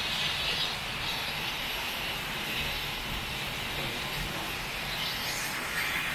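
Heavy tropical rain pouring steadily, pattering on a tin roof.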